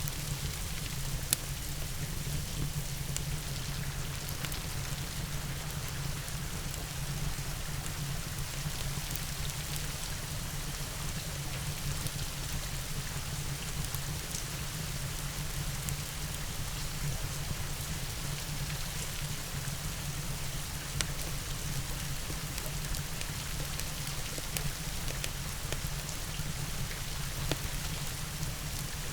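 Steady rain mixed with a fireplace: continuous rain hiss over a low steady rumble, with three sharp crackles standing out, about a second in, about two-thirds through and near the end.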